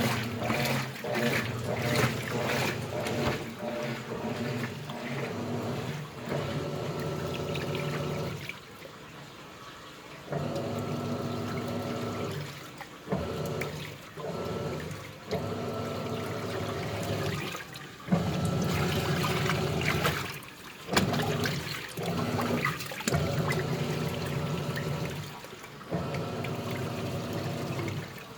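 Washing machines running with water sloshing in the drums; a steady motor hum comes in stretches of a few seconds, broken by short pauses, the longest about 8 to 10 seconds in.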